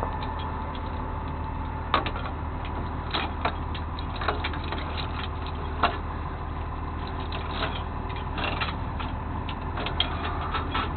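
Vehicle engine running with a steady low drone, with irregular sharp clicks and rattles over it.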